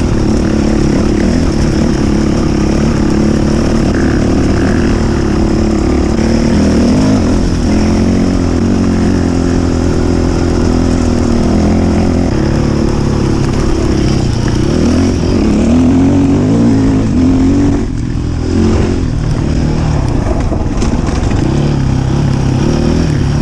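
Enduro dirt bike engine heard up close while riding, its revs rising and falling again and again with throttle and gear changes, over a steady hiss.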